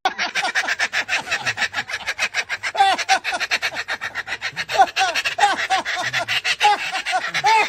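Pet parrot imitating laughter: a fast, unbroken cackle of short repeated notes, about ten a second.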